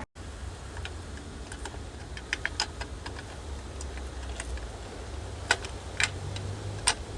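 Scattered light clicks and ticks, with a few sharper ones late on, over a steady low hum.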